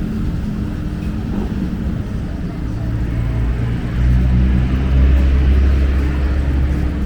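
Street traffic with vehicle engines running close by; a deep engine rumble swells about four seconds in and eases near the end.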